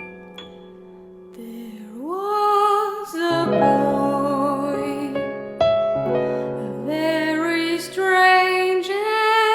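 Piano playing softly, a rising run of notes fading into a held chord, then a woman's singing voice comes in about two seconds in, sliding up into long held notes with vibrato over sustained piano chords.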